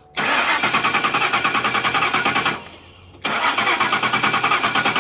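Ford Mustang engine cranked on the starter twice, each time a fast, even churning for two to three seconds without catching and then stopping abruptly. It cranks but does not fire because no fuel is reaching it.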